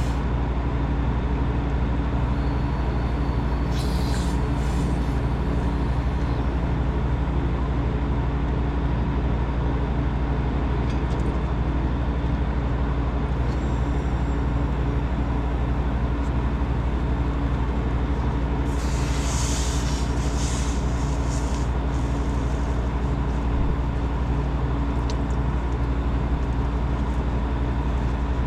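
Refrigeration equipment running with a steady mechanical hum, with a short hiss about 4 seconds in and a longer hiss about 19 seconds in.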